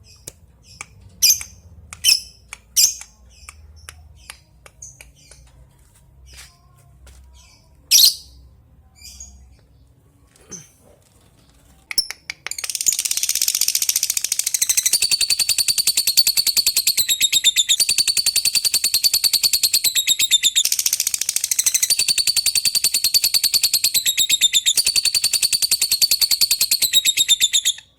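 Lovebird giving sharp single chirps for about twelve seconds, then breaking into a long, rapid, unbroken chattering trill that cuts off suddenly near the end. This is the long 'ngekek' song.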